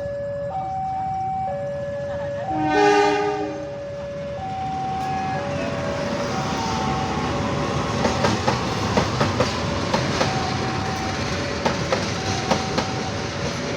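Passenger train's locomotive horn blowing one blast of about a second, a few seconds in. The train then runs past with a growing clickety-clack of wheels over rail joints, over a steady alternating two-tone warning signal.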